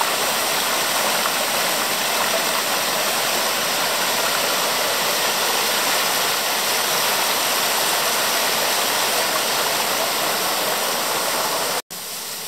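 Steady rushing of the Orlias waterfall's falling water. Near the end the sound cuts out for an instant and comes back quieter.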